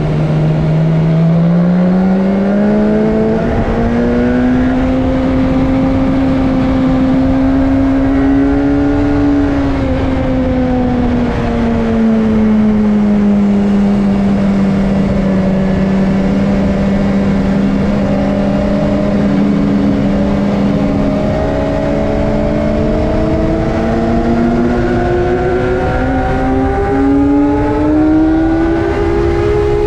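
BMW S1000R's inline-four engine at speed on track: the revs climb over the first few seconds, hold, ease down around ten seconds in and stay lower, then climb again near the end. A steady rush of wind and road noise runs under it.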